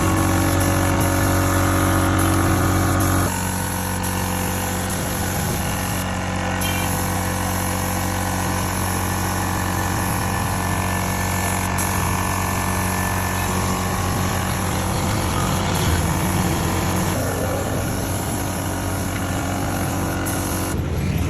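Air compressor running steadily with a constant motor hum; about three seconds in it gets a little quieter and changes tone.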